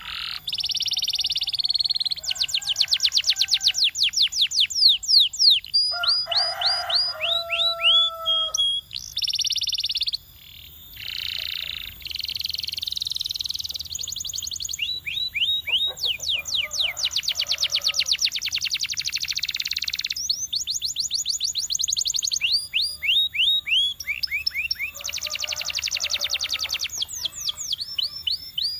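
Domestic canary singing a long continuous song of fast trills, rapid repeated downward-sweeping whistled notes alternating with rolled buzzy phrases and a few lower held notes.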